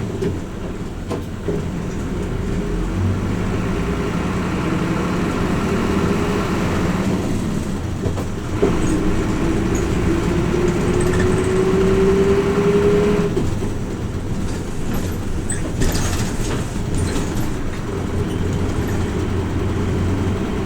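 Interior running sound of a Hino Rainbow RJ P-RJ172BA route bus under way: its diesel engine and drivetrain hum steadily, a whine rising in pitch as the bus gathers speed from about eight seconds in, then cutting off abruptly around thirteen seconds in as the engine note changes. Light rattles and clicks from the bus body follow.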